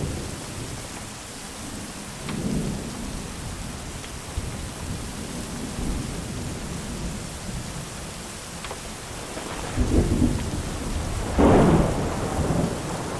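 Steady rain with thunder rumbling several times, the loudest roll near the end. A few sharp crackles from a wood fire are heard over it.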